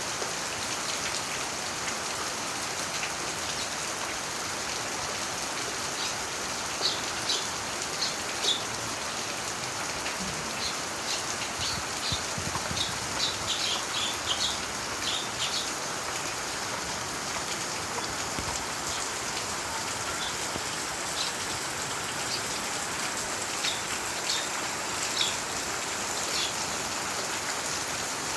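Steady rainfall, an even hiss of rain on surfaces. Clusters of short high-pitched sounds come and go over it, several times.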